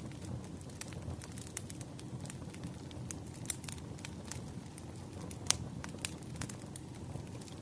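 Campfire burning: a steady low rumble of flames with irregular sharp crackles and pops of burning wood, one pop louder than the rest about five and a half seconds in.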